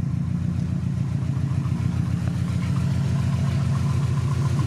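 Subaru Impreza WRX STi's turbocharged flat-four engine idling steadily and warm, with an even pulsing note; a light ticking comes in near the end.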